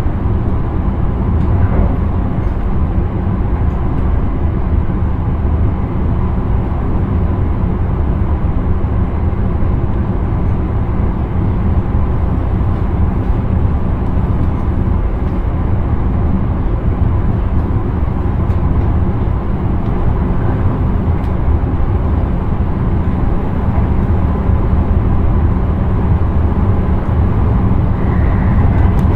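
Intercity train running steadily along the line, heard from inside the driver's cab: an even, low rumble of wheels on rail and traction noise with no change in speed.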